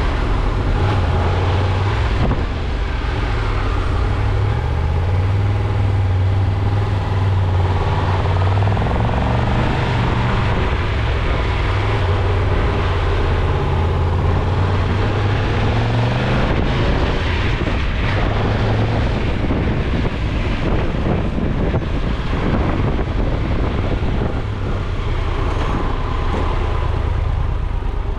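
Car engine and road noise while driving. The engine's pitch rises and falls with speed and shifts in steps several times.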